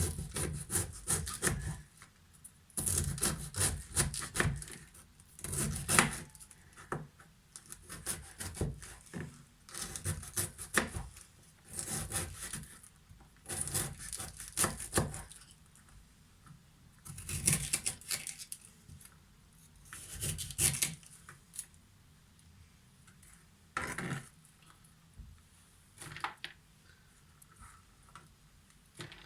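Knife slicing through red cabbage against a wooden cutting board, in runs of quick cuts about a second long with short pauses between. The cuts become fewer and more spread out near the end.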